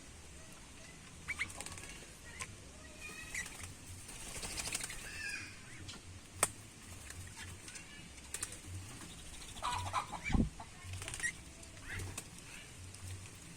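Small aviary birds fluttering and moving about: wing flaps and scattered light clicks, with a few short chirps and a dull thump about ten seconds in.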